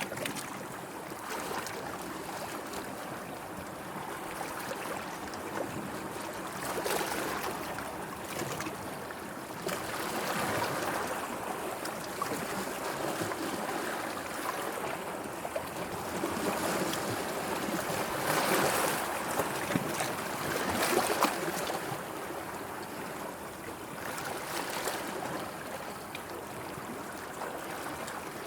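Gentle sea waves lapping and sloshing, swelling and easing every few seconds, with small splashes; the biggest swells come a little past the middle.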